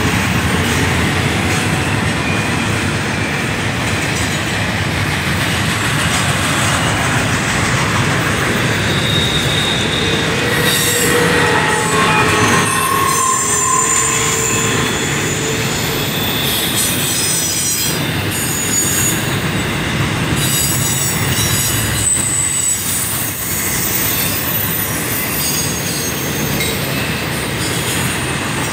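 CSX double-stack intermodal freight train passing at speed: a steady rumble and clatter of steel wheels on the rails. Thin, high wheel squeals come and go from about ten seconds in.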